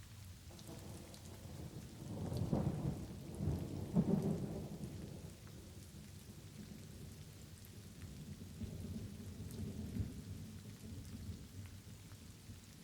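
Light rain falling steadily with thunder rumbling: a loud roll builds about two seconds in and peaks around four seconds, then a fainter rumble follows in the second half.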